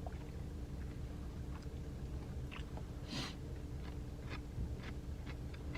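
People chewing and biting food, with scattered small wet clicks and crunches and one brief louder scratchy sound about three seconds in.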